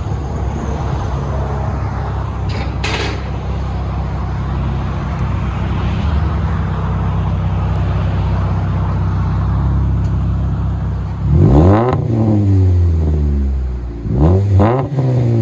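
2007 Pontiac G5's 2.2-litre four-cylinder engine running through an aftermarket exhaust: a Vibrant bottle resonator, rear muffler delete and 3-inch resonated tip. It idles steadily, then is revved sharply twice near the end, the pitch rising and falling with each blip.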